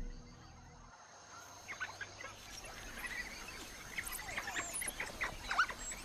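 Background music fades out in the first second. After that, birds chirp and whistle with many short, high calls over a faint bush ambience.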